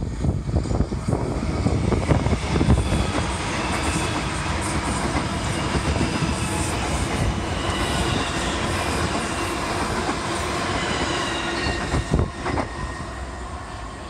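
South Western Railway electric multiple unit passing along the platform: wheels rumbling on the track with a faint high whine, the sound falling away over the last couple of seconds as the train draws off.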